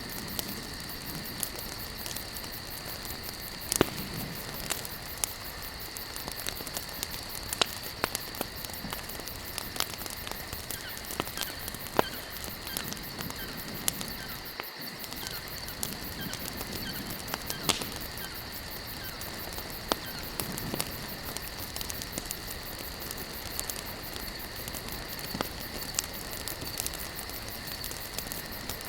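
Wood campfire burning, crackling with irregular sharp pops, a few of them louder, over a steady high-pitched background tone. The sound drops out for a split second about halfway through.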